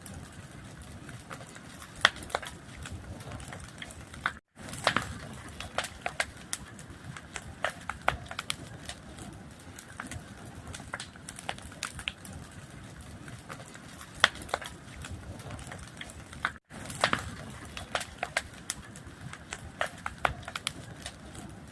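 Fire crackling: irregular sharp pops and snaps over a low steady rumble. The sound cuts out to dead silence twice for a split second, about a fifth of the way in and about three quarters of the way in.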